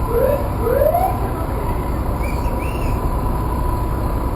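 Emergency vehicle siren giving two short rising whoops in the first second, then a couple of fainter higher chirps, over steady low rumbling background noise.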